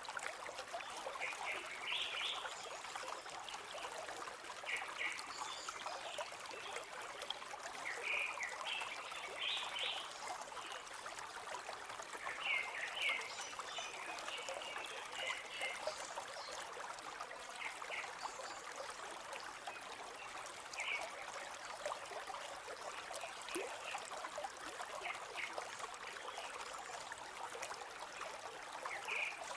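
A river flowing: a steady trickling rush of water with many short, brighter trickling notes on top.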